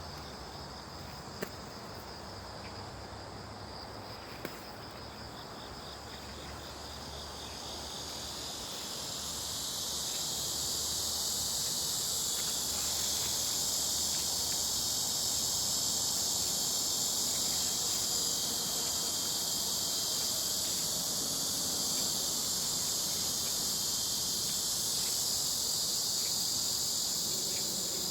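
Chorus of insects making a high, shrill, steady buzz that swells up about eight seconds in and then holds at full strength. Two faint ticks sound in the first few seconds.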